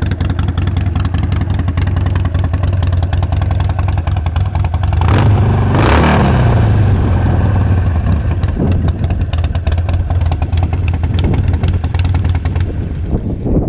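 Harley-Davidson Sportster 72's 1200cc air-cooled V-twin running through Vance & Hines exhausts at a steady idle. About five seconds in, one throttle blip makes it louder, then the pitch falls back to idle.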